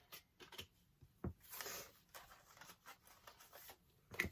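Faint rustling and light clicks of magnetic letters being picked out and handled, with a sharper click about a second in and another near the end.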